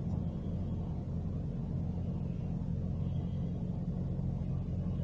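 A steady low hum with no change in pitch or level.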